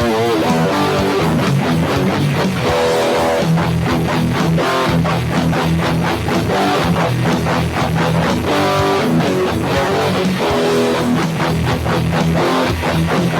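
Electric guitar playing a rock intro riff, picked notes and chords in quick succession.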